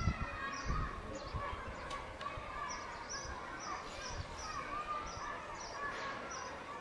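Small birds chirping, short high notes repeating about two to three times a second, with a few low bumps near the start.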